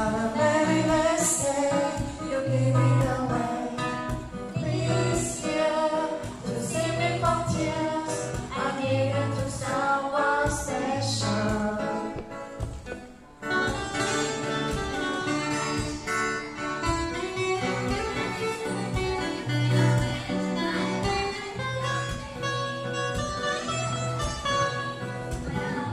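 A group of singers singing together to guitar accompaniment, with a brief break in the music about halfway through.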